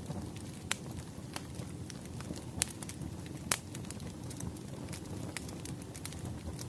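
Wood fire burning steadily with a low rumble and irregular sharp crackles and pops, the loudest about three and a half seconds in.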